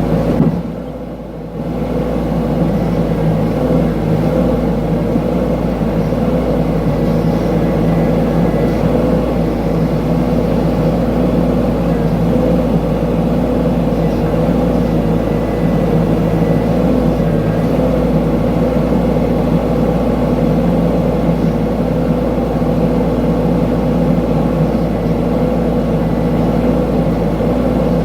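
Mini excavator engine running steadily under work. It dips for about a second near the start, then holds an even level.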